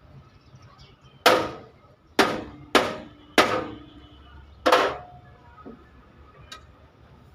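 Five hammer blows on metal, each ringing briefly, in an uneven rhythm: panel-beating of accident damage.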